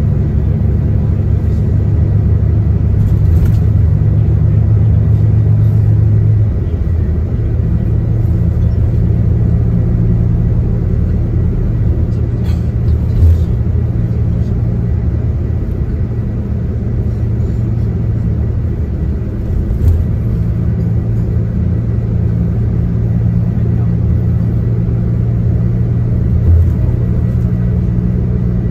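Diesel tour coach underway, heard from inside the cabin: a steady engine drone over road and tyre rumble, the engine note shifting about six seconds in, with a few brief knocks from the body.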